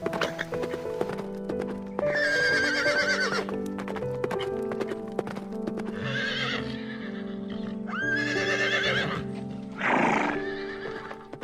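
Horse whinnying twice, long wavering calls a few seconds apart, with quick hoof clops at the start and a loud breathy blow near the end, over soft background music.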